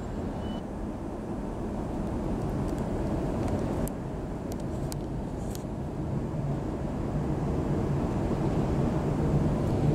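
Queensland Rail electric train pulling away from a station and gathering speed, heard from inside the carriage. It is a steady rumble of wheels and running gear that grows slowly louder. A few sharp clicks come between about three and six seconds in.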